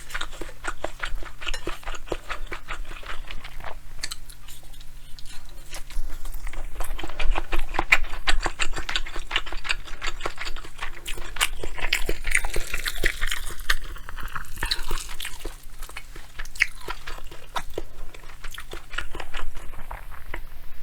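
Close-miked chewing and crunching of a mouthful of bibimbap: a dense run of small wet clicks and crunches, over a faint steady hum.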